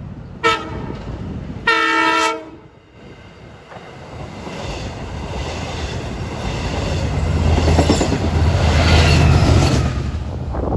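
Long Island Rail Road diesel commuter train at a grade crossing: its horn sounds a brief blast, then a longer chord. The train then rolls by with a rising rumble and wheel clatter, loudest near the end.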